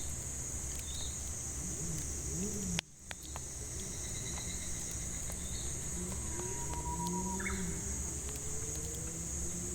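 Steady high drone of cicadas, with burning firewood giving scattered small crackling pops and a few short bird calls. A sharp click and a brief drop in the sound come about three seconds in.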